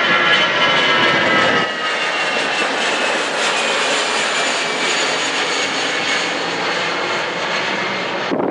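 Jet airliner's engines running loud as it passes, with high whining tones that drift slightly lower. The noise drops a little a couple of seconds in, then holds steady until a sudden cut near the end.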